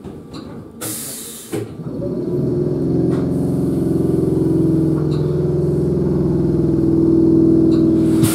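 Electric commuter train coming to a stop at a platform: a short hiss of released brake air about a second in, then a steady mechanical hum from the train's on-board equipment.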